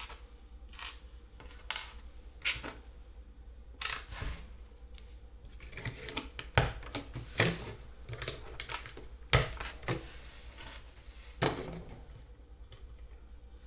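Plastic LEGO pieces clicking and clacking as a set is built: irregular sharp clicks and taps, busiest in the middle, over a faint low hum.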